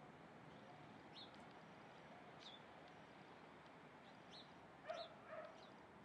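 Faint outdoor birdsong: short high chirps about once a second. A dog barks twice near the end.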